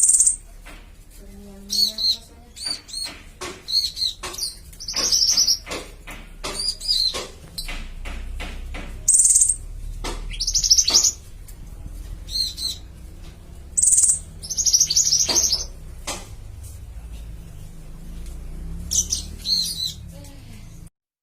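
Caged songbirds, mantenan and pentis raja, calling back and forth in a singing duel with short, high, repeated chirps and quick trills, mixed with sharp clicking notes.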